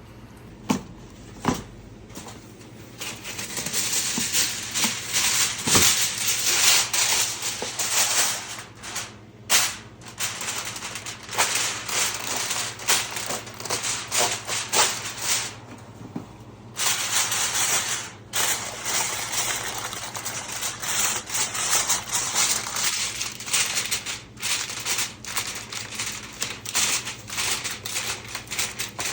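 Food frying in hot oil in a pan, sizzling and crackling, preceded by a few sharp knocks. The sizzle starts a few seconds in, drops out briefly past halfway, then picks up again.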